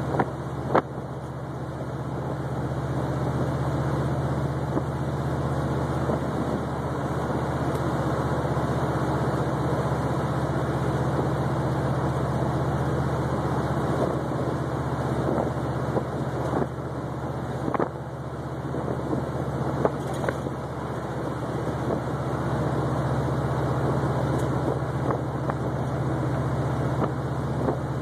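1972 Oldsmobile 442's V8 engine running steadily at a cruise, with road and tyre noise, heard from inside the car. A few short knocks stand out, the loudest about a second in.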